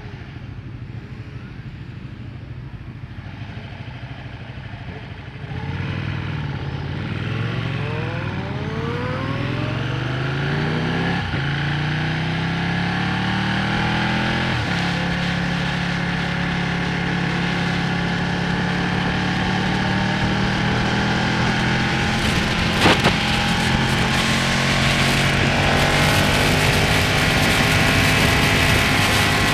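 Ducati Panigale's L-twin engine idling, then pulling away and accelerating up through the gears, its pitch rising and dropping at each shift, before settling into a steadier run with a rushing hiss building toward the end. A single sharp click comes about two-thirds of the way through.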